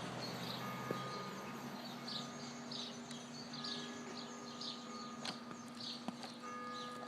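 Small birds chirping over and over, short high calls repeated about once or twice a second, with a few light clicks.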